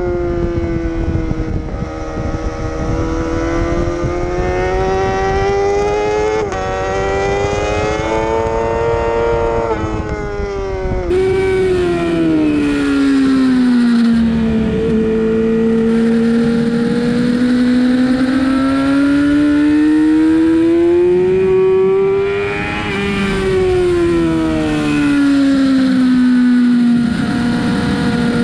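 Sportbike engine at track speed with wind rush. Revs climb, drop sharply once at a gear change about six seconds in, fall off for a corner, climb again on the next straight, then wind down under braking near the end.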